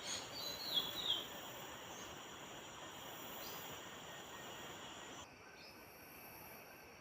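A few short, quick, falling bird chirps in the first second or so, over steady high-pitched insect trilling and a hiss of background noise. About five seconds in, the background abruptly becomes quieter.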